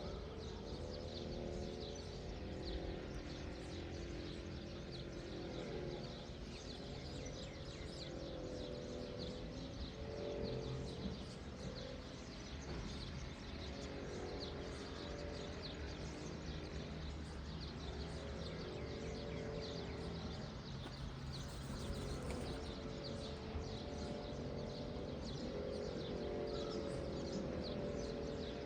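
Many small birds chirping and twittering over a steady low rumble, with a soft wavering drone underneath.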